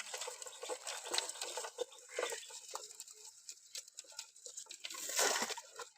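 Water splashing and pattering in small, uneven spurts, with a louder splash about five seconds in.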